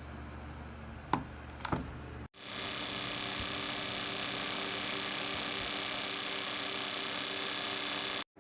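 Honeywell HT900C desk fan running: a steady rush of air with faint steady tones, which starts abruptly about two seconds in and stops abruptly near the end. Before it there is a low hum with two short clicks.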